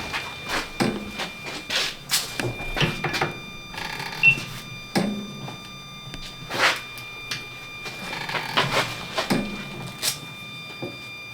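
Wood-Mizer BMS250 band-saw blade sharpener running: a steady high whine with repeated, unevenly spaced clicks and clunks as it works along the blade.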